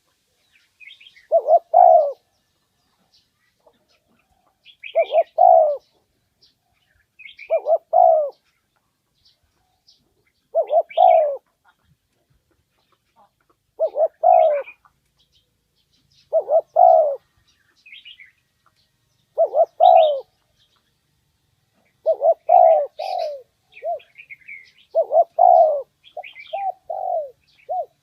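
Spotted dove cooing its calling song: a short multi-note coo phrase repeated about every three seconds, roughly ten times, the later phrases trailing a few extra short coos. Faint, higher chirps of small birds sound between the phrases.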